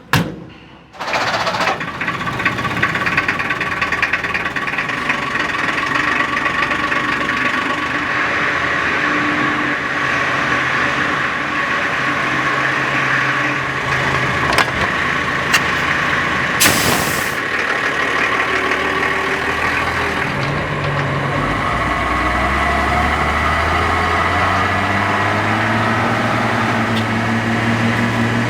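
Mercedes-Benz L 311 truck's six-cylinder diesel engine starting about a second in, then running steadily. Its note climbs in pitch over the last several seconds.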